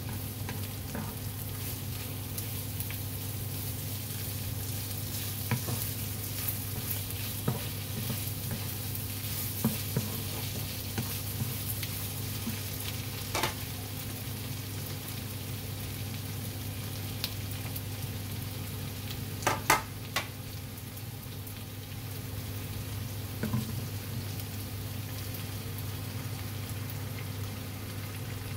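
Pork belly and onion sizzling as they fry in a nonstick wok, turned with a wooden spatula, with a few sharp knocks of the spatula against the pan; the loudest is a double knock about two-thirds of the way through. A steady low hum runs underneath.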